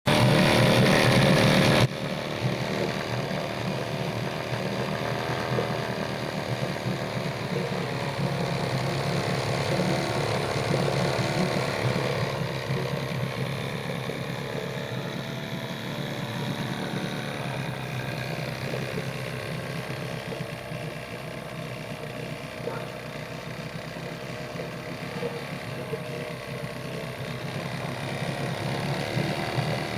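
Mercury 9.8 hp two-stroke twin-cylinder outboard motor running steadily, its pitch wavering slightly. It is louder for about the first two seconds, then drops abruptly to an even run.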